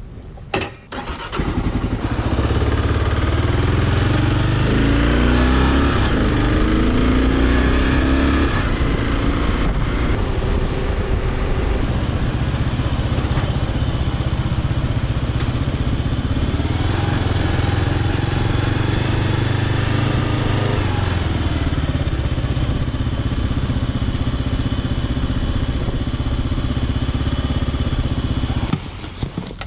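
Kawasaki KLR650's single-cylinder engine running while riding, its pitch rising and falling a few times through the gears. The sound comes up about a second in and drops away shortly before the end.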